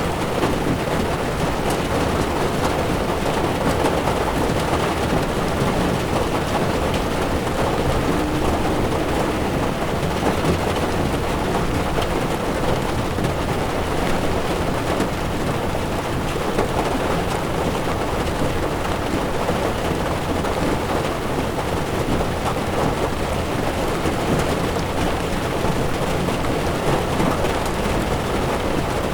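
Heavy rain pattering steadily on a moving car's windshield and body, mixed with tyre noise on the wet road.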